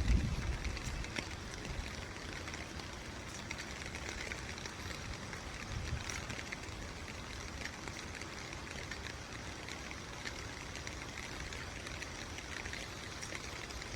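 Steady rushing of a large waterfall's falling water, an even hiss with no breaks. Wind buffets the microphone at the start and fades within the first second.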